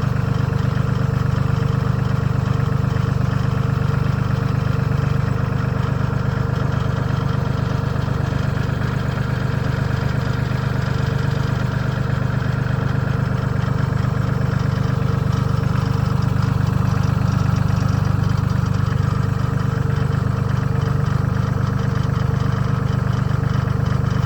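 Tractor engine running steadily at low speed.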